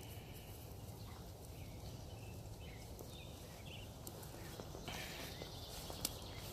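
Puppies moving about: scattered small taps and scuffles over a steady low hum, with one sharper click near the end.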